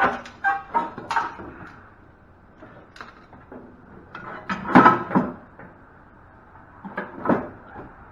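Metal clanks and knocks from handling the steel panels and parts of a heavy machine table, in several bursts, loudest about five seconds in.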